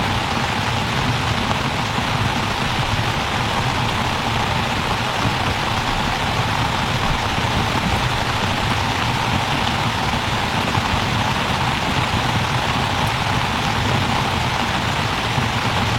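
Rain falling steadily in a storm, an even hiss with a low rumble underneath.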